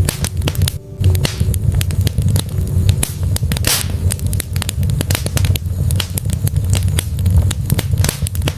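Log fire crackling and popping in a fireplace, many sharp snaps over a steady low rumble, with a brief hiss about midway. The sound drops out for a moment about a second in.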